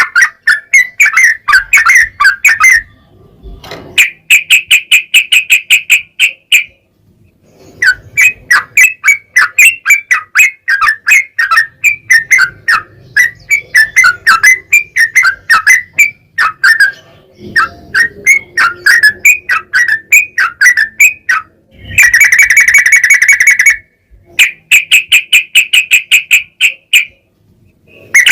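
Yellow-vented bulbul (trucukan) singing: long, fast runs of bubbly chattering notes, broken by short pauses, with a harsher buzzing burst near the end.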